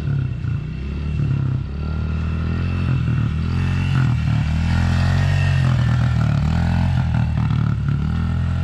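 Small four-stroke engine of a youth off-road vehicle running steadily, growing louder about two seconds in and then holding.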